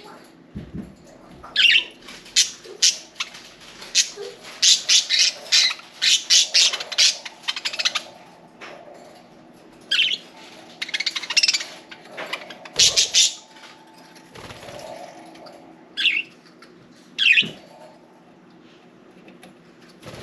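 Budgerigars chirping and squawking in quick clusters of short, sharp calls, with some wing flapping as they bathe.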